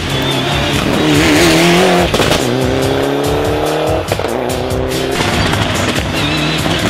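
Rally car engines revving hard on a special stage, the pitch climbing and then dropping off as the drivers lift and shift, with sharp cracks between.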